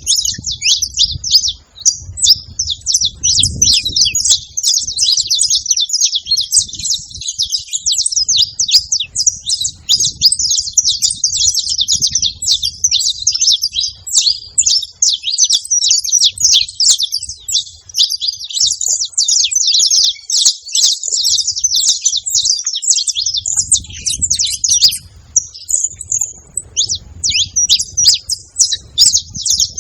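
Saffron finches chirping in a dense, continuous stream of high, rapid notes, with a faint low rumble coming and going underneath.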